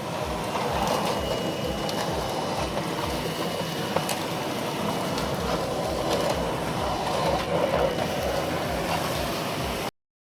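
Miele Blizzard CX1 bagless vacuum cleaner running, a steady motor and airflow noise, with a faint high whine through the first half.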